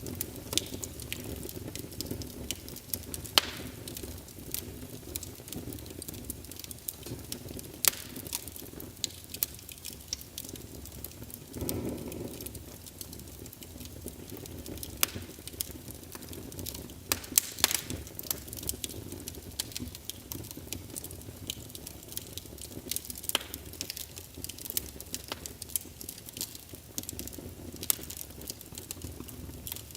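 Wood fire in a fireplace crackling, with sharp pops at irregular intervals over a low steady rumble of flame. A short louder rush of the flame comes about twelve seconds in.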